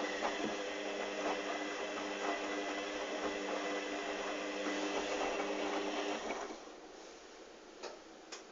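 Hoover Dynamic DYN 8144 D washing machine tumbling wet towels in its pre-wash: a steady motor hum with the load sloshing in the drum. It stops a little past six seconds in, followed by two short clicks near the end.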